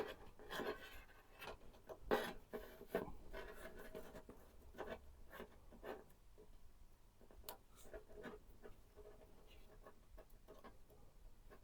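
Faint handling noises of hands working on PC parts: scattered light clicks, taps and scratchy rubbing, loudest about two seconds in.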